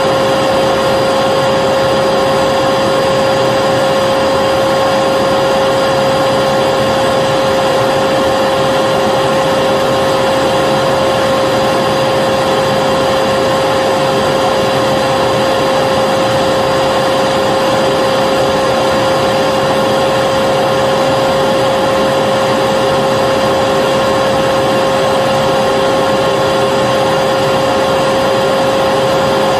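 Vacuum cleaner running continuously: a steady, unchanging motor whine over the rush of air.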